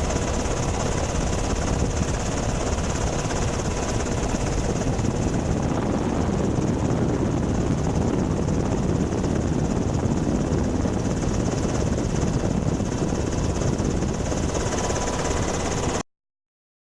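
Steady loud aircraft noise, an even roar with a faint steady hum in it, that cuts off abruptly about a second before the end.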